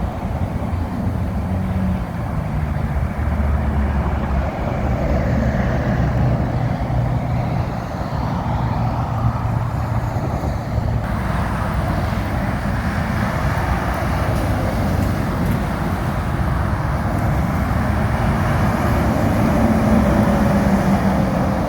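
Steady highway traffic with heavy trucks passing: diesel engines and tyres running on a wet road.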